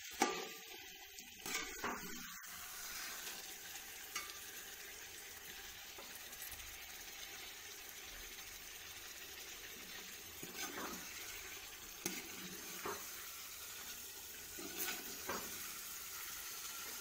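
Chicken in masala sizzling gently in a metal pot on a low flame, with a spoon scraping and knocking against the pot now and then as it is stirred.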